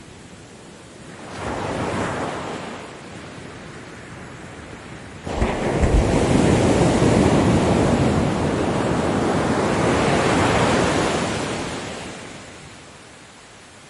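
Ocean waves breaking on a beach. A small wave washes in about a second and a half in, then a bigger wave crashes suddenly about five seconds in, rushes for several seconds and fades near the end.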